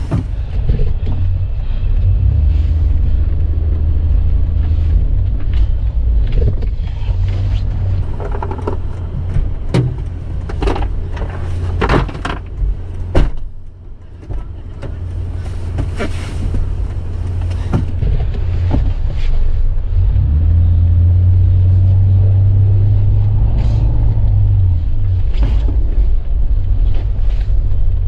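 A vehicle engine running with a heavy low rumble. A cluster of sharp knocks and clacks comes around the middle, and a steadier low hum holds for a few seconds later on.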